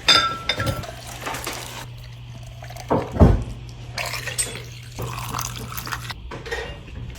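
Kitchen sounds: water running at a sink with dishes knocking, over a steady low hum, and one low thump about three seconds in.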